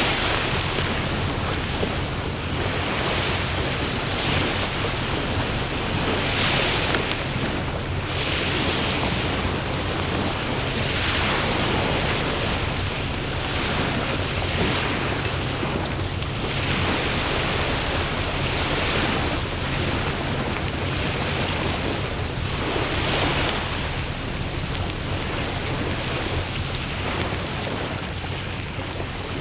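Bonfire burning with a steady rushing of flames that swells and fades every second or two, and a few faint crackles near the end.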